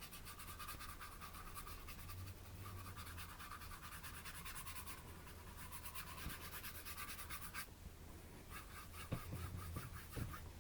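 A paintbrush scrubbing acrylic paint onto a canvas: faint, quick back-and-forth scratchy strokes, lighter for the last couple of seconds.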